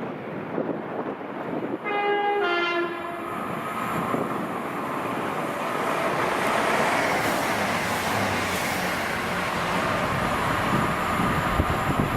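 A train's two-tone horn sounds a short high note and then a lower one. A train then runs past, its wheel and rail noise building into a steady rush.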